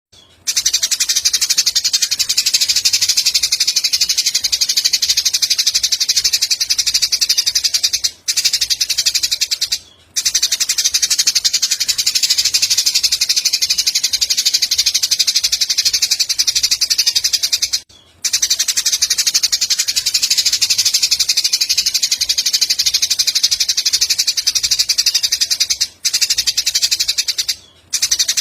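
Recorded bird-song training track of Eurasian tree sparrows' fighting calls, a dense, very fast, high chattering trill that runs on without let-up apart from a few brief breaks.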